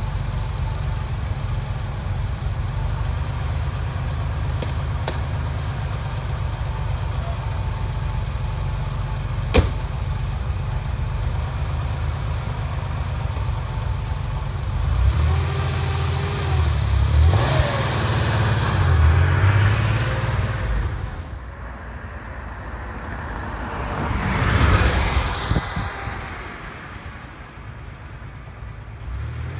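1983 Porsche 911SC's air-cooled 3.0-litre flat-six idling steadily, with one sharp click about ten seconds in. About halfway through the engine revs and the car pulls away, with a second rise in engine sound a few seconds later as it drives past, then it fades.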